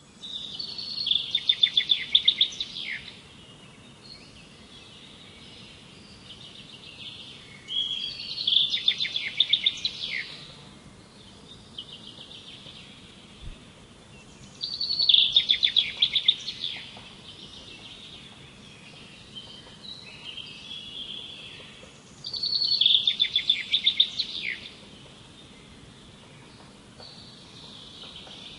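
A songbird singing a loud, rapid, high-pitched phrase about every seven seconds, four times over, with fainter birds calling in between.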